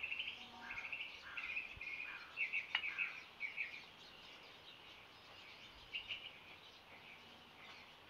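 Songbirds singing in a dawn chorus: a run of chirped and trilled phrases through the first four seconds, loudest about two and a half seconds in, then one short phrase near six seconds, over a faint steady outdoor hiss.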